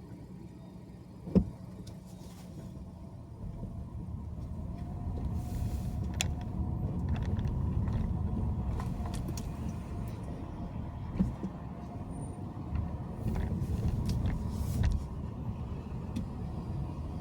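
Car driving on the road: a steady low rumble of road and engine noise that grows louder a few seconds in, with a sharp knock about a second in and a smaller one near the middle.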